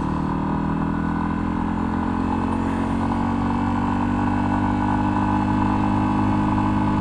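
Yamaha XT250's air-cooled single-cylinder four-stroke engine running at a steady, even pitch while the bike rides along.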